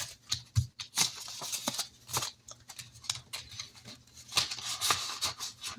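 Paper cash and paper envelopes being handled and stuffed: irregular rustling and crinkling with small taps and clicks.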